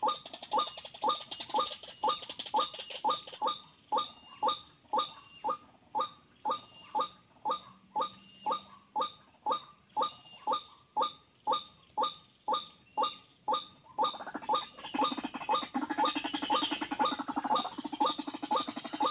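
White-breasted waterhen call played through a speaker as a lure: a short rising note repeated very evenly, almost twice a second. About fourteen seconds in, a harsher, buzzing calling joins it.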